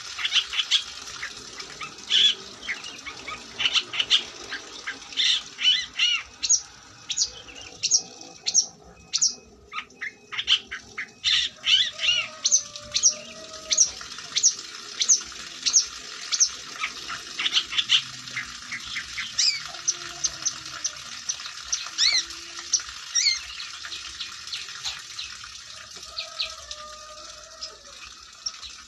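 Long-tailed shrike singing at full voice: a rapid run of short, sharp, harsh notes and chattering, pausing briefly about nine seconds in, then going on with clearer down-slurred whistled notes.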